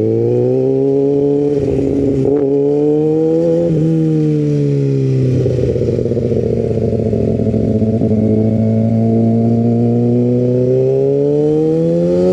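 Sport motorcycle's engine under way: the revs climb over the first few seconds, drop back about four seconds in, hold steady, then climb again near the end.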